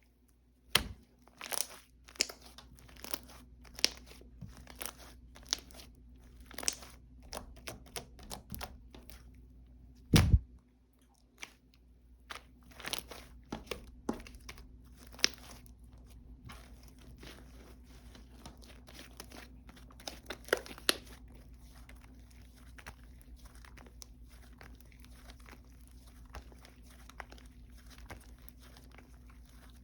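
Hands pressing, squishing and stretching slime: a steady run of small crackles and pops, with louder thuds about one second and about ten seconds in.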